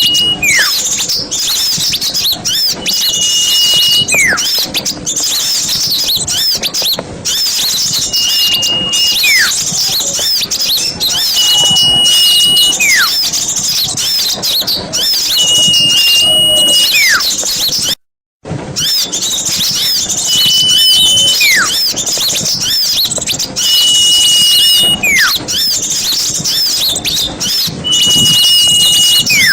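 Small songbirds chirping and trilling in dense, rapid high chatter. Over it, a clear whistled note followed by a falling slur repeats about every four seconds. The sound drops out for a moment about eighteen seconds in.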